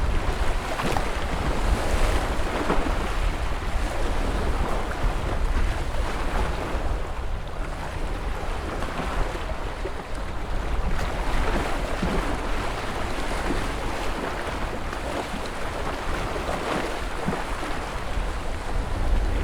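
Ocean waves breaking and washing on the shore, a continuous churning surf with a low rumble, with wind buffeting the microphone.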